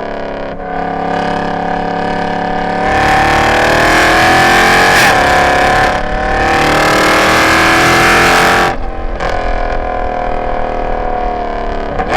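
A Mercedes-Benz C63 AMG's M156 6.2-litre V8, running straight-through long-tube headers, an X-pipe and no catalytic converters, pulling hard at full throttle. The revs climb, dip briefly at an upshift about halfway through, then climb again. The throttle snaps shut about three quarters of the way in and the revs fall away on the overrun, with a short sharp crack at the very end.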